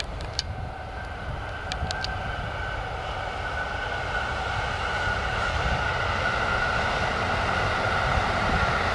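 Freight train with an EF65 electric locomotive hauling E6 series Shinkansen cars drawing nearer: a low rumble with a steady high whine, growing gradually louder, with a few short clicks in the first two seconds.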